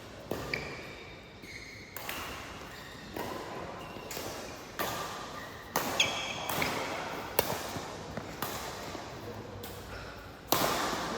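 Badminton rally: sharp racket strikes on the shuttlecock about once a second, with shoes squeaking on the court floor between shots and a harder strike near the end.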